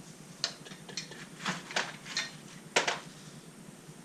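A string of sharp, uneven metallic clicks and clinks from hand tools and engine parts being handled during an engine teardown, the loudest pair about three seconds in.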